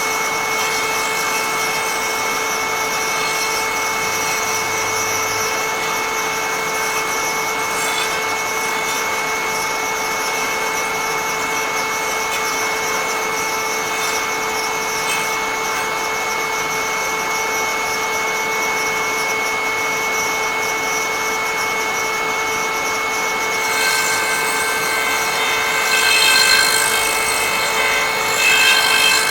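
Motor-driven cutter of a lathe threading jig running with a steady high whine while cutting threads into a wooden box, with a rasping cutting noise that surges a couple of times near the end.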